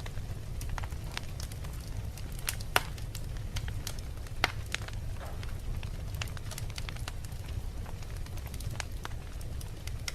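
Wood logs burning in a fireplace and crackling: a steady low rumble with frequent small snaps, and two louder pops, one near three seconds in and one about a second and a half later.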